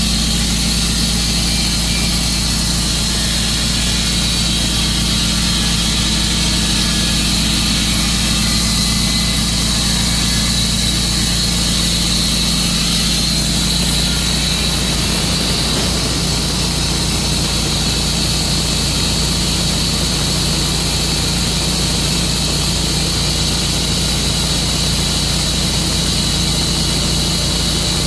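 Tru-Cut portable sawmill's engine running steadily and loudly, with a slight shift in its low note about halfway through.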